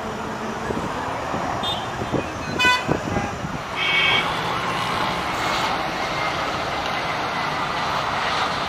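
Steady road traffic noise with two short vehicle horn toots, about three and four seconds in.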